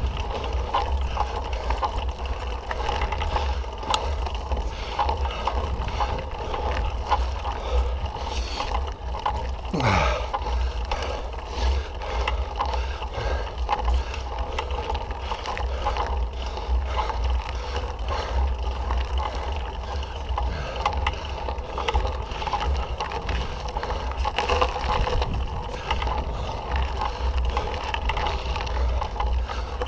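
Mountain bike riding on a dirt trail: wind buffets the microphone under a steady clatter of small clicks and rattles from the bike. About ten seconds in, a short sound falls in pitch.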